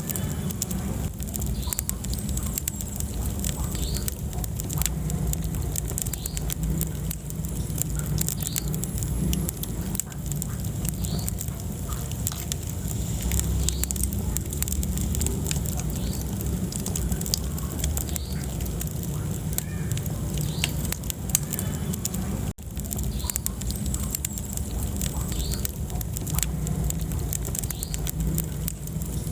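Wood fire burning in a fireplace: a steady low rumble of flame with frequent sharp crackles and pops.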